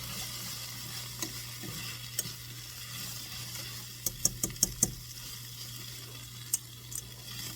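Butter-and-flour roux sizzling in a pan while the flour cooks out, with a utensil clicking against the pan now and then, a quick run of five taps about four seconds in. A steady low hum runs underneath.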